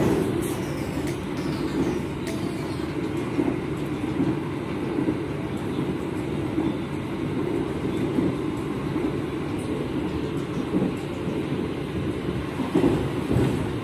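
Argo Cheribon passenger train running along the track, a steady rumble of wheels and carriage heard from on board.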